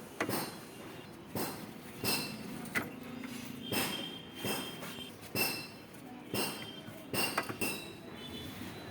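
Irregular metallic knocks and clinks of tools against metal parts, about a dozen strikes, several ringing briefly.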